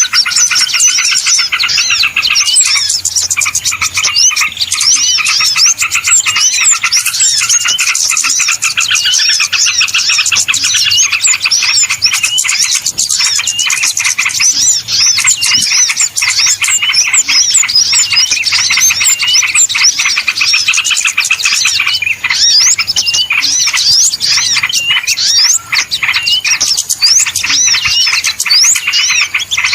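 A dense, noisy chorus of many small birds chirping and twittering at once, quick high notes overlapping without a break, as in a small-bird lure call.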